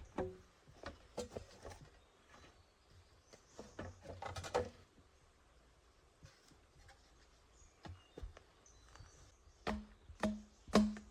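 Irregular chopping or knocking strikes on wood, some leaving a short ringing tone, with a quick cluster about four seconds in and several more near the end.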